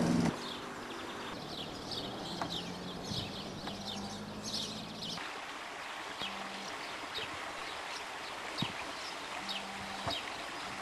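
Small birds chirping: many short, quick downward chirps repeating every half second or so over a steady hiss.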